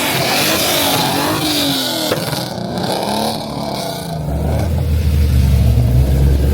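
A car engine revving, its pitch rising and falling several times, then settling into a deep, steady drone from about four seconds in.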